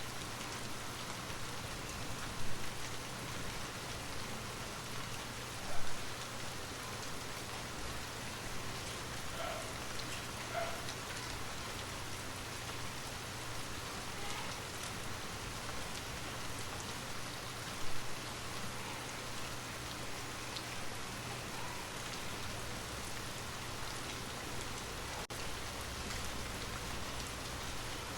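Steady rain falling, with three sudden louder taps standing out above it.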